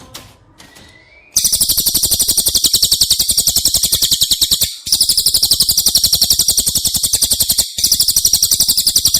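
A bird giving a long, very rapid, evenly pulsed high-pitched chatter that starts about a second and a half in and breaks off briefly twice. This is the fast-repeating call used as a masteran recording for tutoring songbirds.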